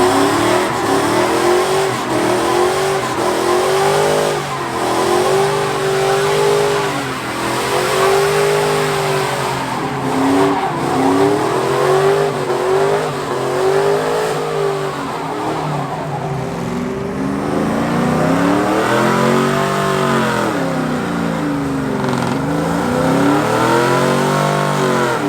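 Truck engine revving up and down again and again, each rev rising and falling in pitch, over a steady hiss.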